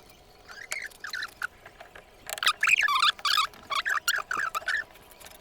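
Birds chirping: a few scattered squeaky chirps, then about two seconds past the start a quick, busy run of short, pitch-bending calls lasting about two and a half seconds.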